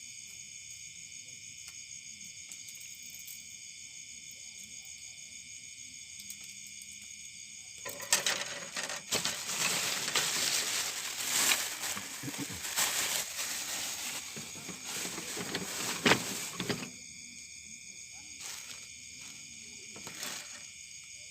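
Steady chorus of insects, crickets or cicadas, shrilling in several high tones throughout. About eight seconds in, a louder stretch of rustling, clicking noise begins and lasts about nine seconds, with one sharp click near its end.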